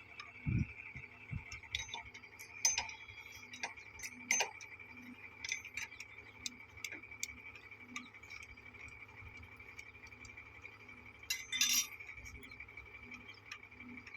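Scattered metallic clicks and clinks, a cluster of them about 11 to 12 seconds in, from metal fittings and hand tools being handled while a railway point machine is fitted. A steady high-pitched tone runs underneath.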